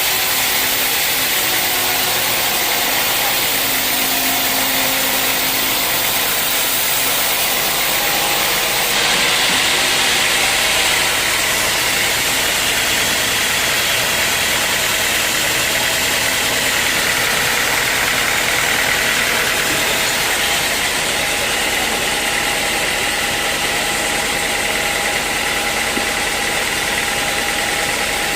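Sawmill running steadily while sawing dry teak, a dense mechanical noise that grows brighter and a little louder about nine seconds in.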